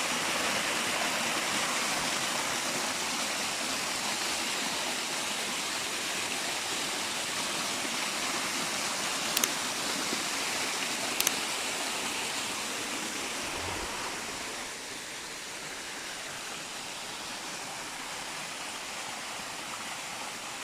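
Spring water welling up out of the ground and flowing: a steady rush of running water that eases a little about two-thirds of the way through. Two brief sharp clicks sound near the middle.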